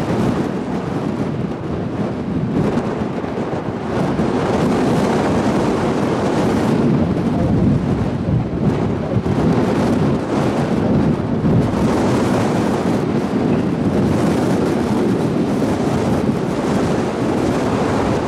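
Strong gusting wind buffeting the microphone: a loud, rumbling rush that swells and eases without a break.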